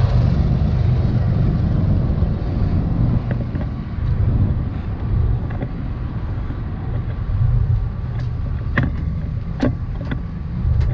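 Steady low rumble of a vehicle running, with a few sharp clicks near the end.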